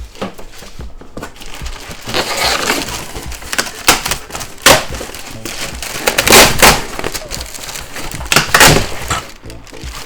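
Packaging being handled as a large model-aircraft wing is unwrapped: irregular loud crinkling and rustling bursts, the loudest around the middle and near the end.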